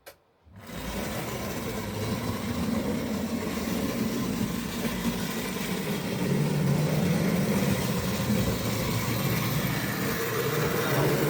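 Tri-ang model railway locomotive running along the track: a steady electric motor hum with wheel and rail noise, starting about half a second in.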